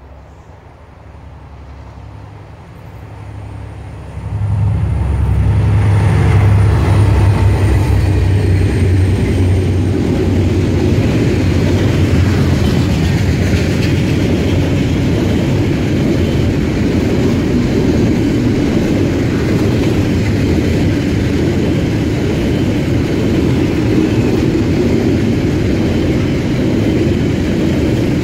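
Two DFB-class diesel-electric locomotives approaching with their engines running: a low drone that builds and then jumps louder about four seconds in as they go by. After that comes the steady rumble of loaded container wagons rolling past on the rails.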